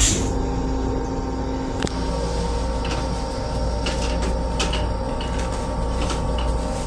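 Interior noise of a Metro-North M7 electric railcar: a steady low rumble with a constant hum, and scattered light rattles and clicks through it.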